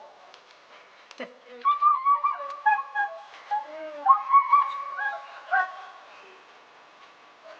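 Sled-type dogs whining and yelping in high-pitched, wavering cries. The cries start about a second and a half in and die away around six seconds.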